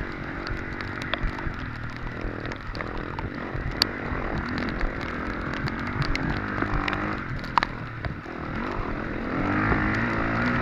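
Off-road dirt bike engine running with the throttle rising and falling, over a haze of wind and trail noise and many sharp knocks and clatter from the bike on rough ground.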